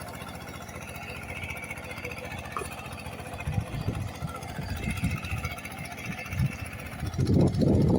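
Single-cylinder diesel engine of a Kubota KRT140 walking tractor running steadily, with wind buffeting the microphone, the gusts growing heavy about seven seconds in.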